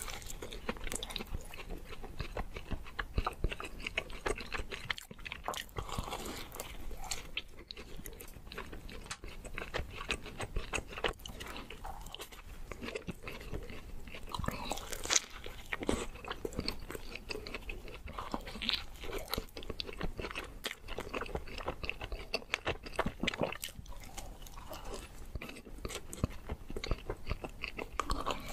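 Close-miked eating: a person biting into and chewing soft doughnuts, a dense run of small, irregular mouth clicks.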